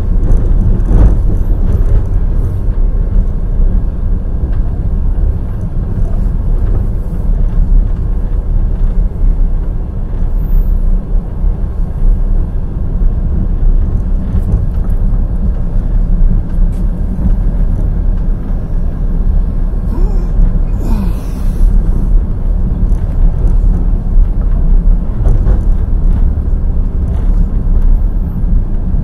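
Wheels of a passenger express train running on the rails: a steady low rumble with scattered faint clicks and a brief hiss about two-thirds of the way through.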